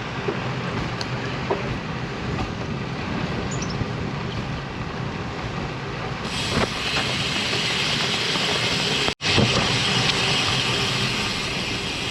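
Wind rushing over the microphone of a GoPro on a moving road bike in gusty wind, a steady roar that grows hissier about six seconds in. The sound cuts out for an instant about nine seconds in.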